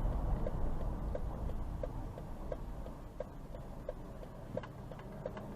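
Hazard-light flasher clicking in a vehicle cab, about three even ticks a second, over a low engine and road rumble.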